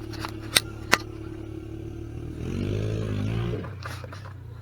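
An engine running steadily, with two sharp clicks within the first second and a brief swell that rises and falls in pitch around the middle.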